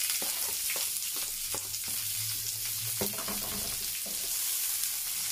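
Sliced onions and green chillies sizzling in hot butter in a frying pan, stirred with a wooden spoon, with scattered light clicks of the spoon against the pan.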